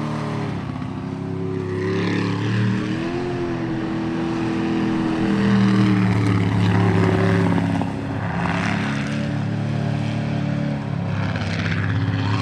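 Jet sprint boat's racing engine running hard, its pitch rising and falling every few seconds as the throttle changes.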